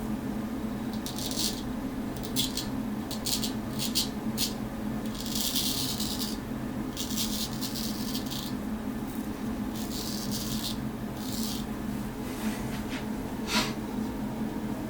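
Straight razor scraping through beard stubble over a coat of hair conditioner: a series of short, scratchy strokes of uneven length, with a steady low hum underneath.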